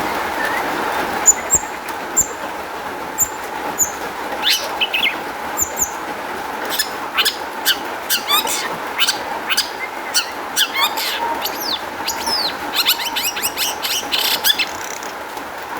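Long-tailed shrike (cendet) singing a rapid, scratchy run of short high chirps and quick gliding whistles over a steady hiss. The notes start about a second in and crowd together near the end.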